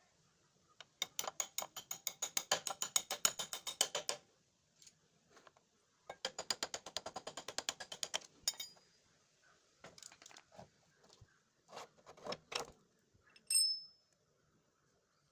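Metal parts and hand tools being worked while taking apart a motorcycle's drum brake: two runs of rapid metallic clicking, about seven clicks a second, then a few scattered knocks and a short ringing clink near the end.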